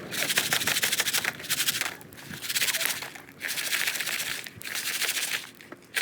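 Popcorn rattling inside a container that is shaken hard and fast in bursts, with short breaks between the bursts.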